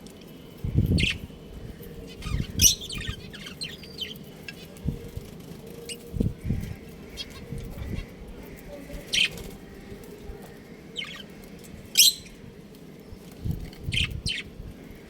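Budgerigars giving scattered short, sharp chirps, with a few low thumps and wing flutters among them.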